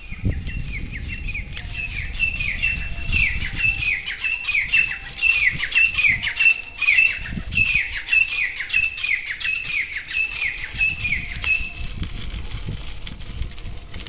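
A bird calling over and over in a fast series of short notes, each falling in pitch, about two or three a second; it stops near the end. Under it are a steady high hiss and the low rumble of bicycle tyres rolling over a leaf-strewn dirt path.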